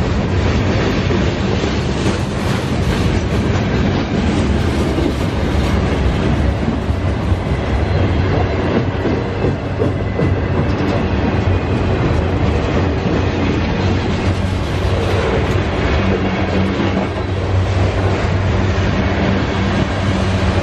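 Freight train cars rolling past on the rails, wheels clattering steadily over the track. Near the end the low hum of the mid-train CSX diesel locomotives grows as they come alongside.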